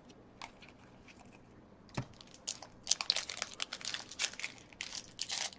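Hockey card pack wrapper being torn open and crinkled by hand: faint for the first two seconds, a single tap about two seconds in, then dense, irregular crinkling and tearing from about three seconds on.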